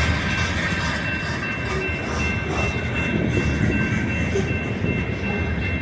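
Freight cars of a CSX manifest train rolling past on the rails with a steady rumble.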